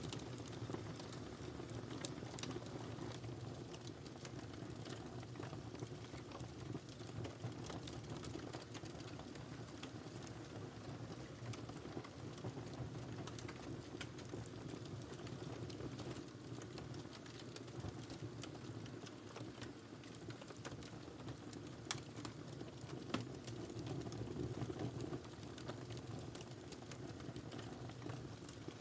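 Wood fire crackling: a steady low rumble of burning with irregular sharp pops and snaps, two louder pops a little past the middle.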